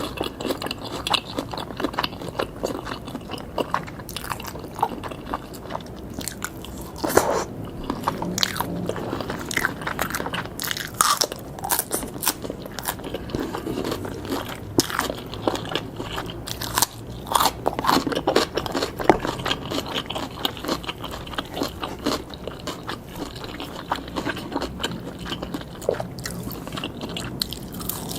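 Biting and chewing grilled pork skewers and red sausages, with many irregular sharp crunches and clicks.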